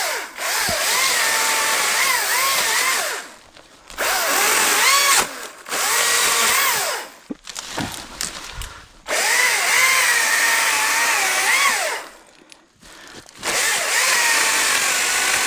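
ECHO DCS-2500T cordless top-handle chainsaw cutting wood in short runs: the electric motor's whine spins up, dips in pitch as the chain bites and recovers, and stops between cuts, about five times.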